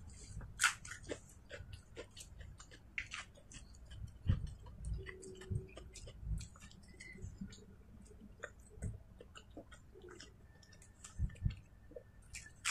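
Close-up eating sounds: chewing with many small soft clicks, a few soft thumps as fingers pick food from the plate, and a crisp bite into a raw lettuce leaf near the end.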